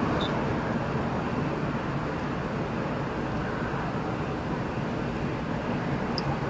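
Steady traffic noise: a low, even rumble of vehicles on the road.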